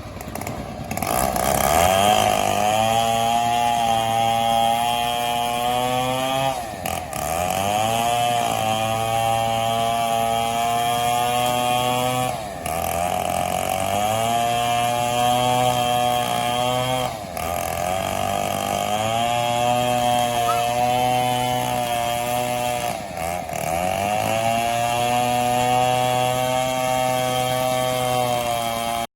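Two-stroke chainsaw running at high revs while cutting into a mahogany tree. The engine note drops briefly about every five to six seconds and rises back up each time.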